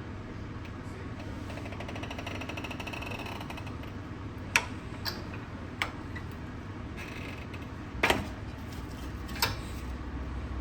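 Hand tools working on a car's front brake caliper: a rapid ratchet-like rattle, then a few sharp metal knocks and clicks.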